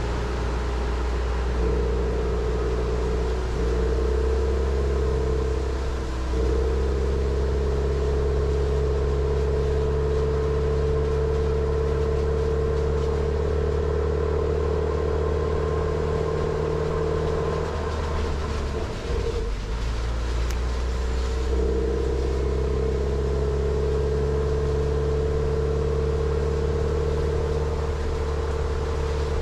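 Jeep Renegade's engine running steadily as the SUV drives slowly along a narrow forest road. Its steady drone eases off and changes pitch for a few seconds about two-thirds of the way through, then settles back.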